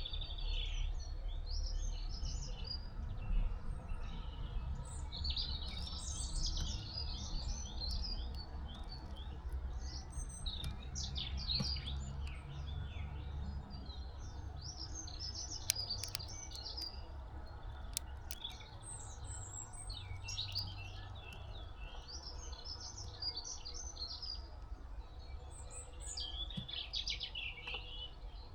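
Small songbirds chirping and twittering in quick clusters of short high calls, over a steady low rumble, with a couple of sharp clicks about halfway through.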